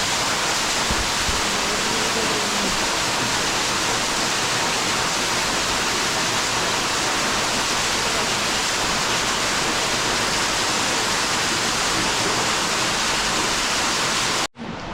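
Loud, steady rush of a waterfall, an even roar of falling water that cuts off abruptly about half a second before the end.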